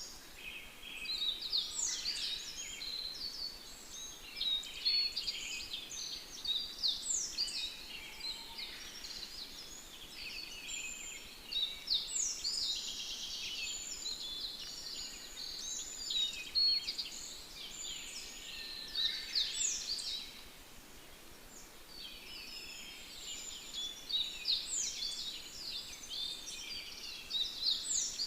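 Small songbirds singing and chirping in a busy chorus of quick high notes and short sweeping calls, easing off for a few seconds about two-thirds through before picking up again.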